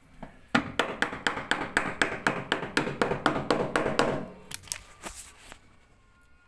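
A rapid, even run of sharp knocks with a little ringing, about four a second for roughly three and a half seconds, then a few scattered knocks.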